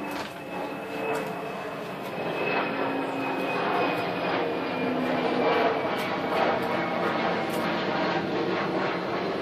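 Engine drone growing steadily louder, with a thin high whine that slowly falls in pitch.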